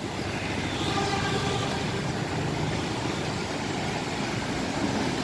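Intercity bus's engine running steadily as the bus drives slowly past.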